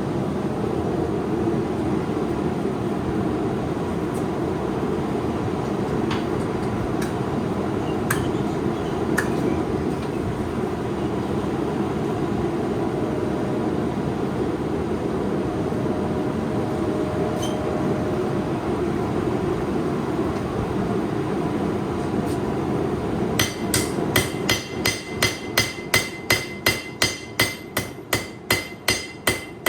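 A forge running steadily for most of the clip, then, near the end, a hammer striking the hot 8670 steel knife blade on the anvil in a fast, even run of ringing blows, about three to four a second.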